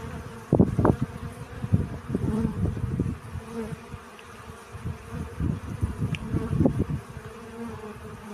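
Bees buzzing close by while foraging for pollen, the buzz wavering in pitch and loudness as they move, with irregular low thumps.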